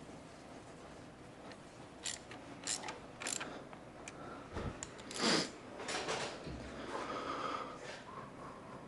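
A run of small clicks, rattles and knocks from tools or parts being handled, with a couple of short rustling thuds about five to six seconds in.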